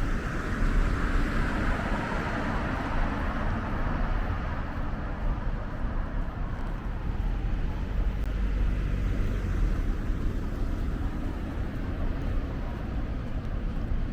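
Road traffic going past, a steady noise of car engines and tyres.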